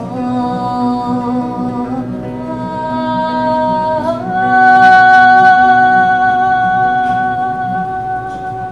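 A woman singing long held notes without words, stepping up to a higher, louder note about four seconds in and holding it, over a softly strummed guitar as the song closes.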